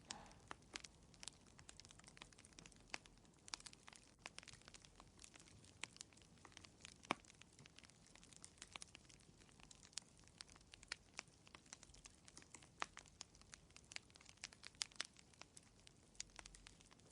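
Faint wood fire crackling: irregular sharp pops and snaps over a soft hiss, with the loudest pop about seven seconds in.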